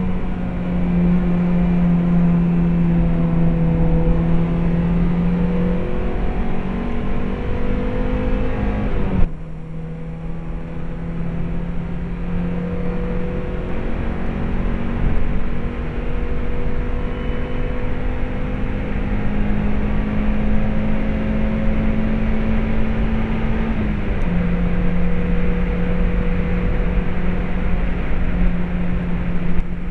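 Stock 1.8-litre four-cylinder engine of a Mazda MX-5 heard from inside the cabin at speed, its note climbing slowly as the car pulls along the track. The sound drops suddenly in loudness about nine seconds in, and the pitch falls once near the end, as at an upshift, before climbing again.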